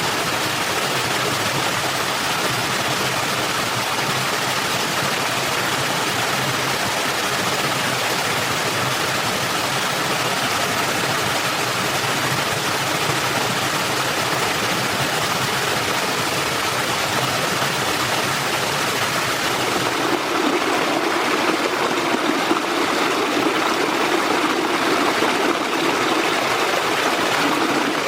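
Stream water flowing steadily, a continuous rushing babble; about twenty seconds in it gets a little louder and fuller.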